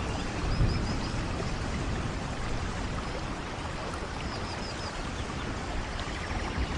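Steady rain falling, an even hiss of water with a couple of soft low thumps. Faint short high chirps come through twice, about half a second in and again around four seconds.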